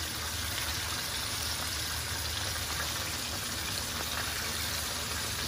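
Breaded chicken pieces deep-frying in hot oil in a skillet, sizzling steadily.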